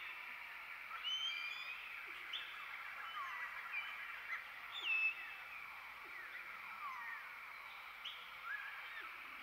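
Wild birds calling: assorted chirps and whistled notes, several falling in pitch, over a dense steady chorus, with the loudest falling whistle about five seconds in.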